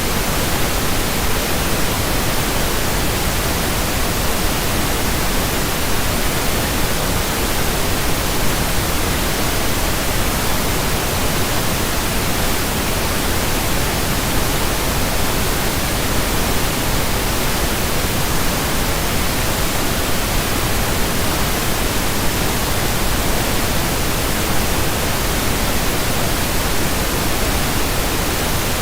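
Steady pink noise: an even, unchanging hiss with all pitches blended together, from low to high.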